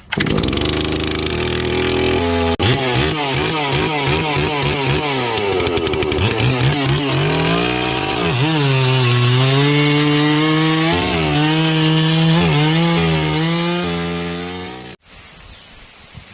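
MOTOYAMA 1000 chainsaw running at high revs while cutting teak wood. Its engine pitch sags and recovers again and again as the chain loads in the cut, and the sound cuts off abruptly near the end.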